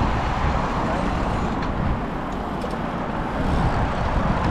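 Road noise heard while riding a bicycle in traffic: wind rumbling on the microphone, with passing motor traffic.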